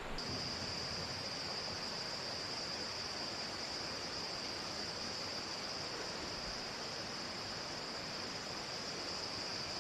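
Steady high-pitched insect drone that starts abruptly just after the beginning and holds without a break, over an even rushing hiss.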